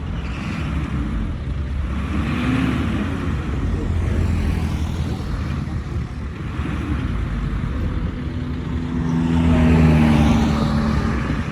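Diesel engine of heavy earthmoving equipment running under load. It revs up briefly about two seconds in, then climbs again to its loudest near the end before easing off.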